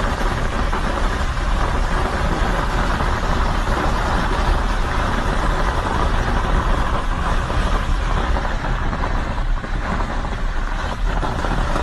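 Heavy hail and rain pelting down in a steady, loud hiss, with wind buffeting the microphone in a deep rumble.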